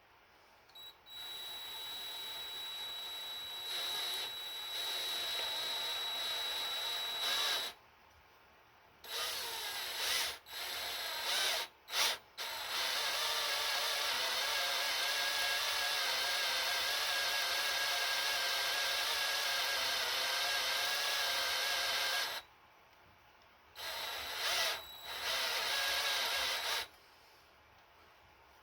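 Electric drill boring into a broken bolt in an engine block with a larger left-hand (reverse) drill bit, running in several bursts with short stops, the longest about ten seconds in the middle with a steady whine.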